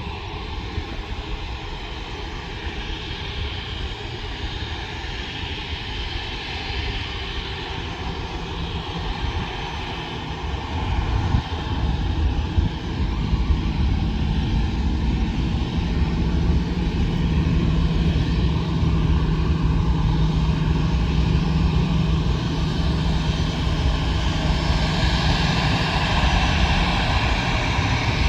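Airplane engines running, growing louder about ten seconds in as the aircraft draws nearer, with a steady low hum under a rushing hiss.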